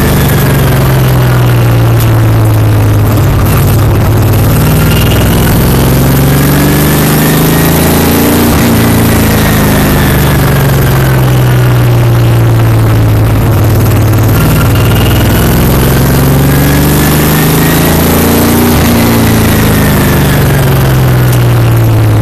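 Stock car's V8 engine at racing speed, heard inside the cockpit. It runs loud and continuous, its pitch sinking and climbing twice as the car lapses through the turns and down the straights.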